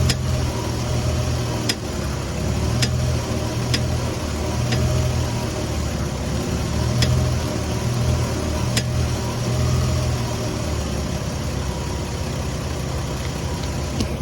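Lexus IS300 idling while the steering wheel is turned, with about eight sharp pops at irregular intervals from the steering or front end. This is the popping noise that comes with turning the wheel.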